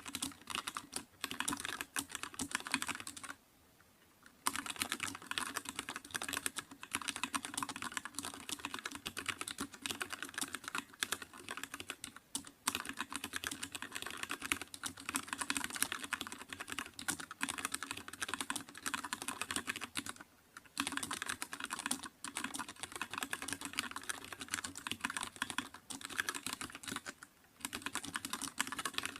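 Fast, continuous typing on a computer keyboard: a dense run of key clicks that breaks off for about a second around 3 seconds in, and briefly again around 20 seconds in and near the end.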